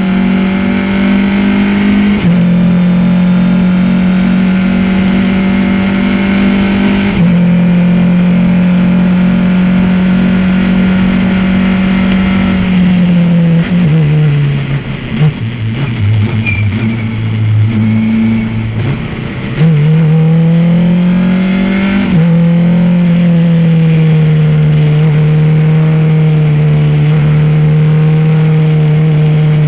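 Race car engine lapping a track at high, fairly steady revs. About 13 seconds in the revs fall away as the car slows, stay low and uneven for several seconds, then climb back up about 20 seconds in and hold steady again.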